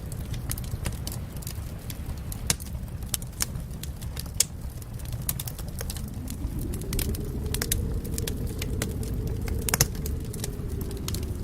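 Wood fire crackling in a fireplace, with frequent irregular pops and snaps over a low rumble. About halfway through, a low rushing sound swells up and fades again near the end.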